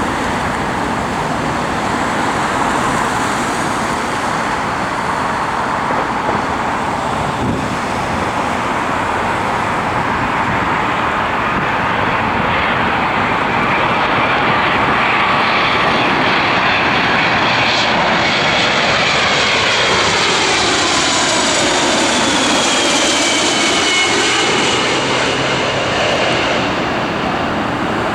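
Boeing 767-300 with Rolls-Royce RB211 turbofans flying over on its landing approach: a steady jet roar that swells slightly. As it passes, its engine whine falls in pitch, about two-thirds of the way through.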